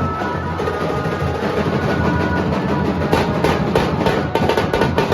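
Nashik dhol ensemble playing: big dhol drums and tasha snare drums beat a fast, dense rhythm, with sharper strokes standing out from about three seconds in.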